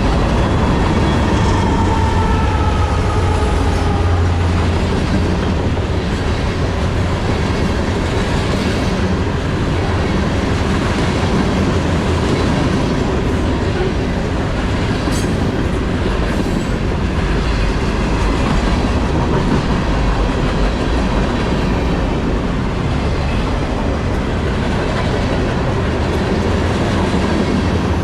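Norfolk Southern freight train rolling past at track side, with a steady low rumble and the clatter of wagon wheels over the rails. Faint wheel squeal glides down in pitch in the first few seconds.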